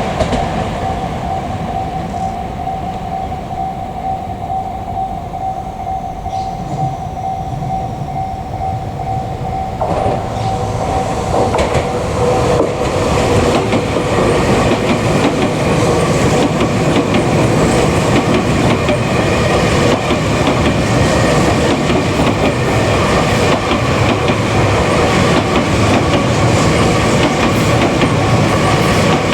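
Ten-car Tobu Tojo Line electric train running past, a continuous rumble of wheels on rail with steady whining tones; the sound changes and grows louder about ten to twelve seconds in.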